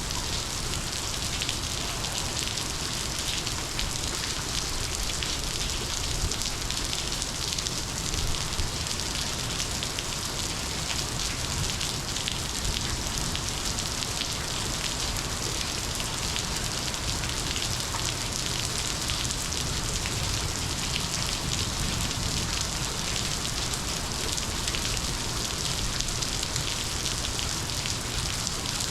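Steady heavy rain from a monsoon storm falling on surfaces, a dense patter of drops.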